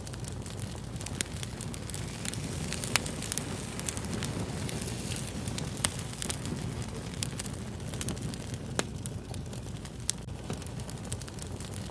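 Fire crackling: irregular sharp pops and snaps over a steady low rumble, with the louder pops about three and six seconds in and again near nine seconds.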